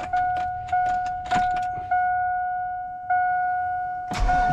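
GMC pickup's dashboard warning chime ringing over and over, each steady tone fading before the next, with keys clicking and jangling in the ignition. Near the end a louder low rumble comes in.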